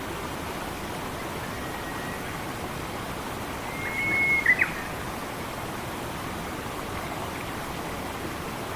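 Steady rushing of a forest stream. About halfway through, a bird gives one short whistled call, a held note ending in a sharp chip.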